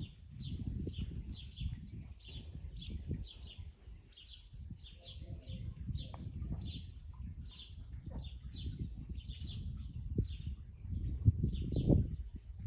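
Small birds chirping over and over, short high calls about two a second, above a low rumble that swells near the end.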